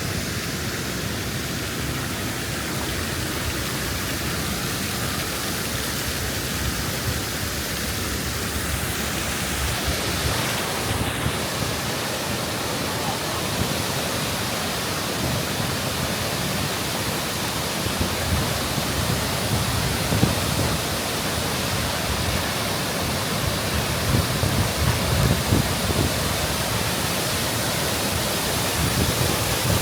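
Waterfall's water rushing in a steady, even hiss, with an uneven low rumble underneath.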